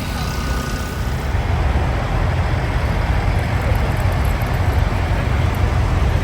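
Idling diesel semi-truck engines: a steady low rumble that grows louder about a second in.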